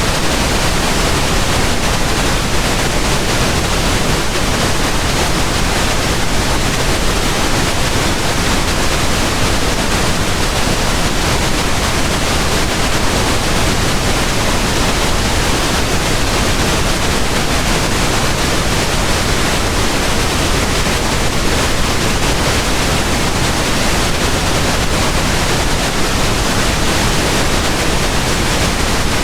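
Pink noise: a steady, even hiss spread across the whole range, with no change in level or pattern.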